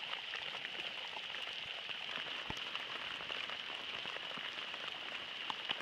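Light rain falling: a steady hiss dotted with scattered ticks of single drops landing close by.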